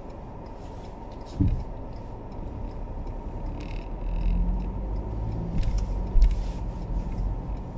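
Car cabin noise while driving on a snowy road: a steady low rumble of engine and tyres, with a single thump about a second and a half in. The rumble grows louder and an engine note comes up from about four seconds in.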